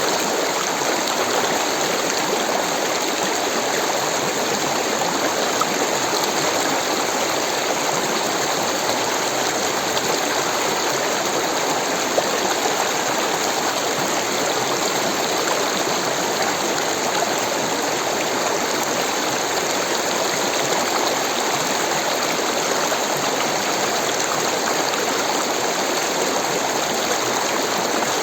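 Rushing water running steadily, an even, unbroken rush with no change in level.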